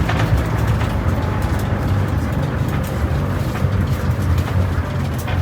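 A vehicle's motor running steadily, heard from on board, with a low hum under wind and road noise.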